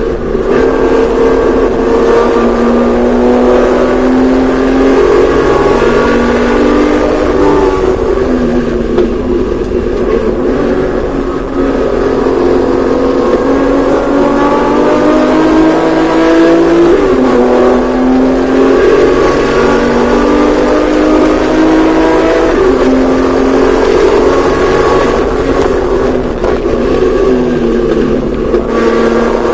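Porsche 911SC's air-cooled flat-six engine running hard on track, its pitch climbing under acceleration and falling back several times.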